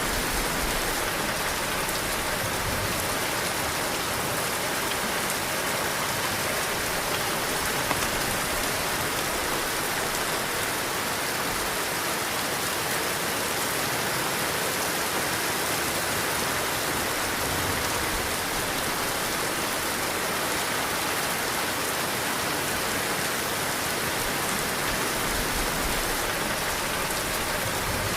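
Heavy rain pouring steadily, with a few low swells of wind underneath.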